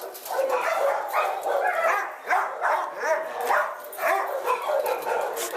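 Many shelter dogs barking, yelping and whining at once, their calls overlapping without a break.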